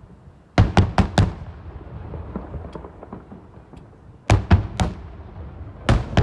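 Aerial firework shells bursting in sharp bangs: four in quick succession about half a second in, three more after about four seconds, and two near the end.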